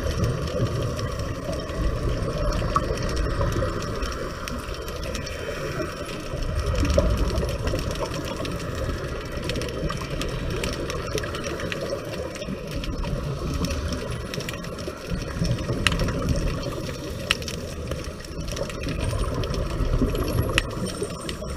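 Underwater sound of scuba breathing: a diver breathing through a regulator, with rushes of exhaled bubbles coming back every few seconds over a steady water hiss and small clicks.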